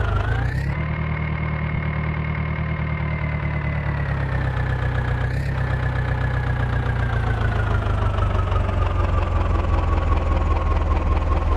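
Diesel engine running steadily. Its speed dips briefly just after the start, then falls slowly over several seconds toward the end.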